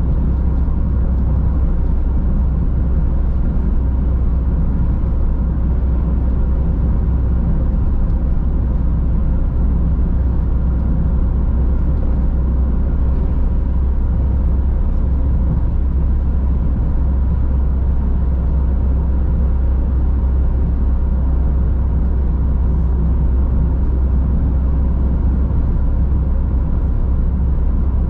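Car driving steadily on the road: a continuous low rumble of engine and tyres on the road surface, even throughout, with a faint steady hum.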